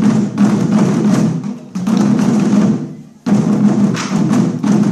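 Chinese war drums played together by a drum troupe in dense, rapid strokes with sharp starts. The drumming breaks off for a moment about three seconds in, then comes back in at full force.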